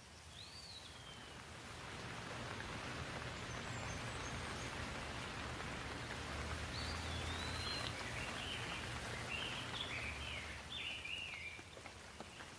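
Rain falling as a steady hiss that swells about two seconds in and eases near the end. A bird chirps once at the start and again in a run of short chirps in the second half.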